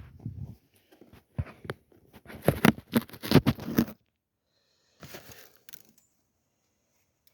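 Rustling, scraping and crinkling handling noise right at the phone's microphone, in irregular clusters of short bursts that stop abruptly about six seconds in.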